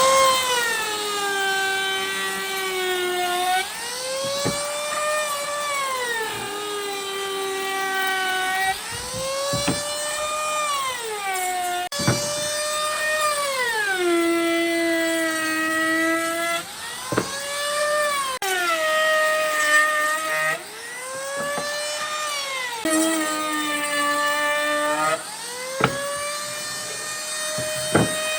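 Electric power tool motor whining as it works wood, its pitch sagging each time it takes load and rising again as the load eases, over and over every few seconds, with a few sharp clicks.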